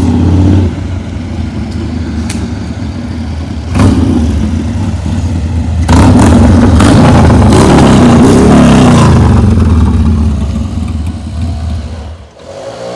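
Harley-Davidson Sportster 48 V-twin with an SPC Lanesplitter 2-into-1 exhaust being revved hard: a loud burst at the start, a short blip about four seconds in, then a long rev that climbs and falls back before the engine settles down near the end.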